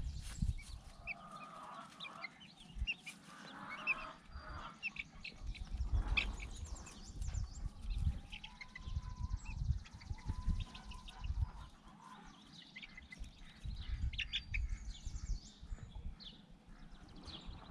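Chickens clucking and calling with many short, high chirps scattered throughout, over intermittent low rumbling.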